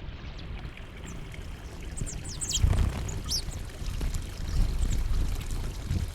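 Small birds giving a few short, high, falling chirps about two to three and a half seconds in, over a low, uneven rumbling noise.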